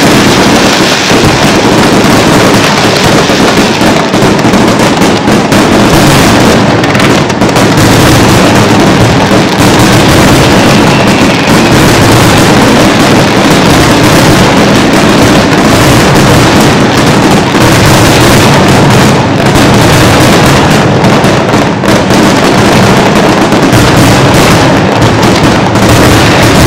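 Fireworks display: a dense, continuous barrage of overlapping bursts and bangs, loud throughout with no pauses between them.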